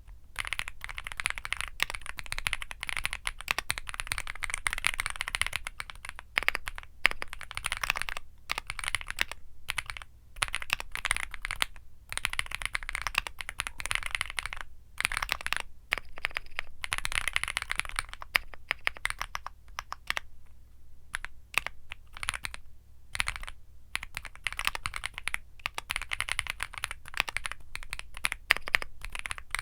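Typing on a Womier SK75 mechanical keyboard with Womier Mint Blizzard switches: fast, dense keystrokes in runs, broken now and then by short pauses.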